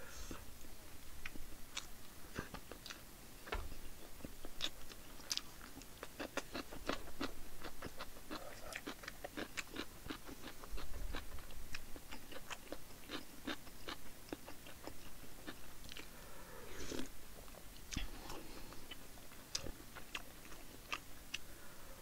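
A person chewing and biting food close to the microphone: a steady run of quick, wet mouth clicks. The mouthfuls are egg-battered pink sausage and Spam kimchi stew.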